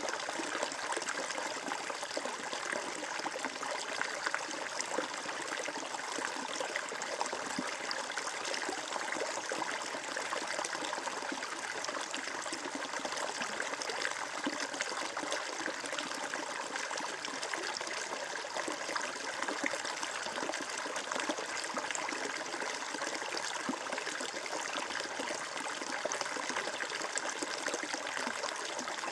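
Water flowing and trickling steadily over stones in a small stream, with fine splashing and burbling.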